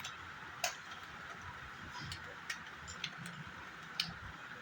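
A few faint, sharp clicks and light taps at uneven intervals, from small cosmetic items being handled, over a low steady hiss.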